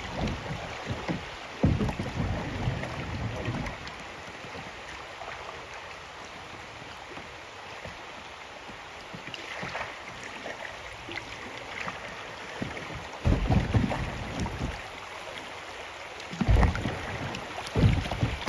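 Kayak out on a river: a steady wash of water with paddle and hull splashing, broken by three spells of loud, low buffeting, about two seconds in, around thirteen seconds and near the end.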